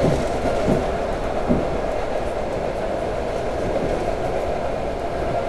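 Suburban electric train running at speed, heard from inside the carriage: a steady rumble of wheels on track, with a few short thumps in the first second and a half.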